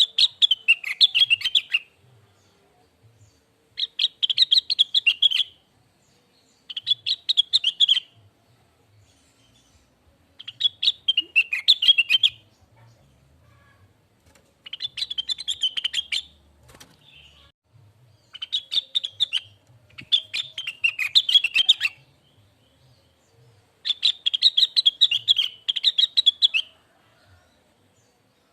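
Cucak wilis, a leafbird, singing in repeated phrases of rapid, sweeping notes. Each phrase lasts about two seconds and comes every three to four seconds.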